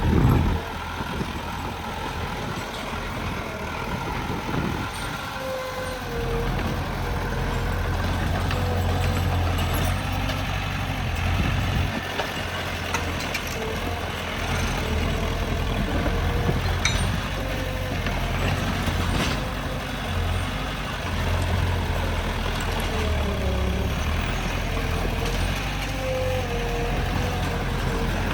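Heavy diesel earthmoving machinery, a bulldozer and dump truck, running steadily with a low engine rumble. A faint wavering whine comes and goes over it.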